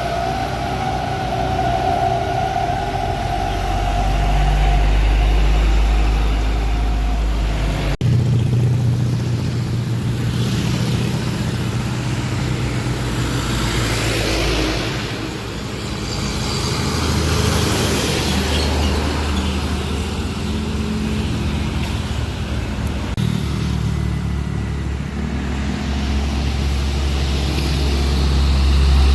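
Diesel engines of heavily loaded trucks straining up a steep climb, with other traffic passing. The engine sound changes abruptly about eight seconds in, and a passing vehicle swells louder around the middle.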